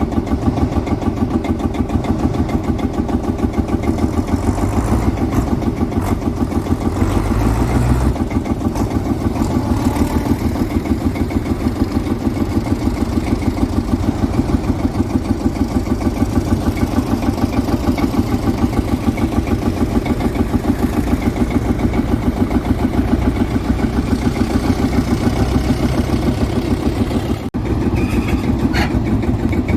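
Single-cylinder Field Marshall tractor diesel running at a slow, steady speed with an even pulsing beat of several thumps a second.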